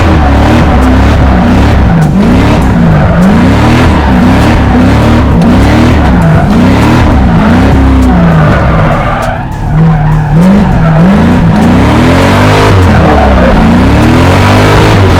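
Drift car being driven sideways, its engine revving up and down over and over under quick throttle changes while the tyres screech. About two-thirds through the engine briefly drops off, then builds again.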